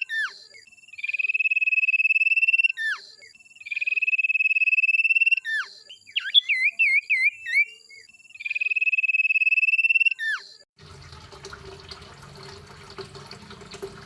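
A songbird on a masteran recording repeats a long, high trill three times. Each trill lasts about two seconds and ends in a quick downward slide, and a burst of rapid warbling notes comes between the second and third. About three-quarters of the way through, the song cuts off abruptly to a faint low hum and hiss.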